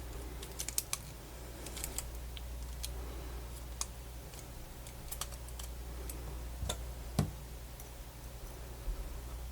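Scattered light clicks and taps of small parts of a Sony MZ-NH700 portable MiniDisc player being handled and fitted together during reassembly, with two louder knocks about two thirds of the way in. A steady low hum runs underneath.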